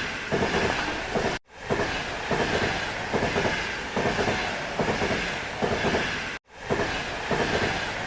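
Train running on rails with a rattling clickety-clack. The sound drops out abruptly twice, about a second and a half in and again about six and a half seconds in.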